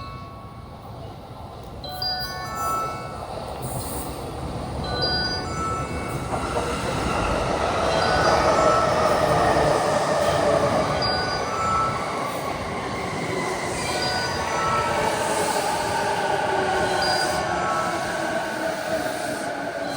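Electric commuter train pulling into the platform. Its running noise builds from about six seconds in, and brake and wheel squeal falls in pitch as it slows to a stop.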